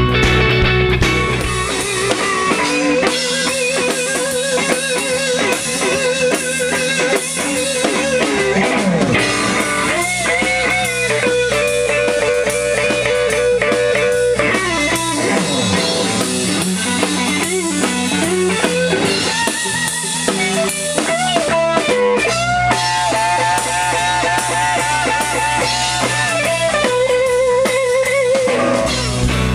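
Rock band playing an instrumental passage: electric lead guitar with bends and vibrato over a drum kit. The deep bass drops out for most of the passage and comes back in about two-thirds of the way through.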